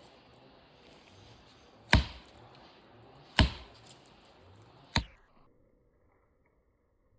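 A felling wedge being struck three times, sharp hard blows about a second and a half apart, driving it into the back cut of an Aleppo pine being felled.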